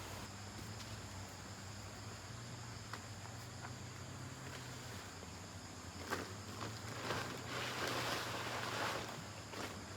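Outdoor background with a steady insect drone and a low steady hum. Rustling or shuffling sounds rise over the second half.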